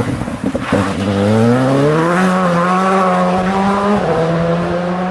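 Škoda rally car's engine under hard acceleration. It crackles and pops on a lift-off near the start, then the engine note climbs and holds high, dipping briefly about four seconds in on an upshift.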